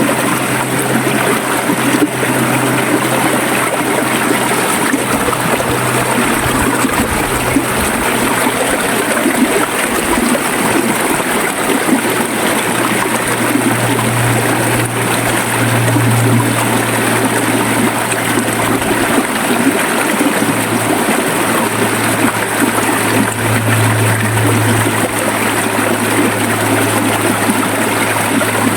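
River water flowing steadily over rocks, trickling and gurgling, with a low rumble underneath that swells briefly twice.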